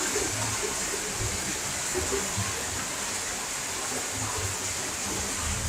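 Steady hiss of heavy monsoon rain falling, with irregular low rumbling underneath.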